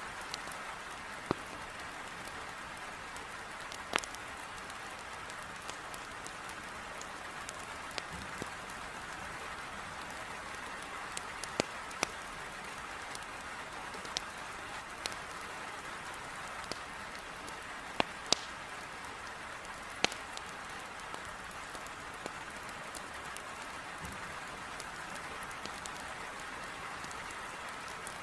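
Heavy rain hissing steadily against a window, with a fireplace's burning firewood giving sharp, irregular pops and crackles every second or few.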